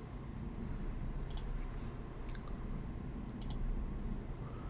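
Computer mouse clicking a few times, some clicks in quick pairs, about a second apart, over a low steady hum.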